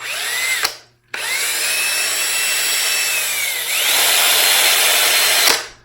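Cordless drill spinning a brass plane adjuster knob mounted on a screw while it is worked with abrasive: a short spin-up that stops after under a second, then a longer run whose motor whine speeds up to a higher pitch and gets louder partway through, with a steady rubbing hiss of the abrasive on the spinning knob.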